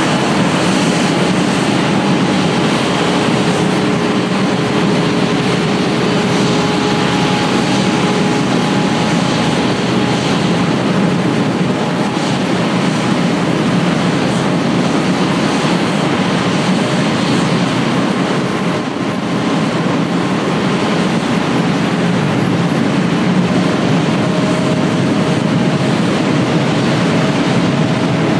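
Jet airliner engines running: a loud, steady rush with faint whining tones that shift, one rising slowly near the end.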